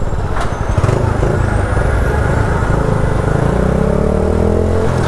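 Motorcycle engine running in traffic. In the last second or so its pitch rises as it revs up.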